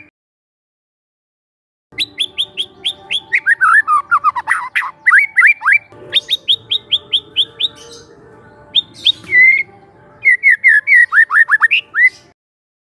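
White-rumped shama (murai batu) song: after about two seconds of silence, fast runs of short sweeping notes, several a second, with brief pauses between runs, cutting off abruptly near the end.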